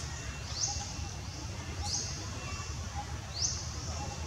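Birds calling: a high call that rises quickly and then holds briefly, repeated three times a little over a second apart, with fainter short double notes lower down, over a steady low rumble.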